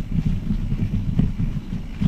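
Wind buffeting the microphone of a camera carried on a moving bicycle: an irregular, fluttering low rumble.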